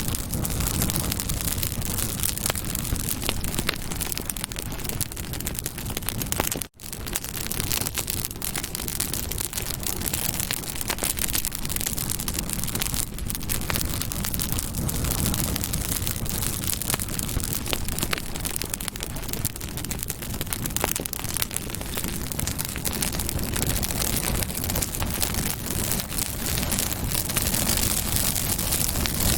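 Campfire crackling with a dense stream of small pops and snaps over a steady hiss. The sound cuts out for a split second about seven seconds in.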